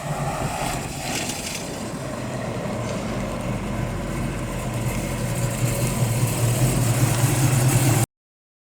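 Engine of a 1970 Ford Mustang fastback running with a steady low drone that grows louder over several seconds, then cuts off suddenly near the end.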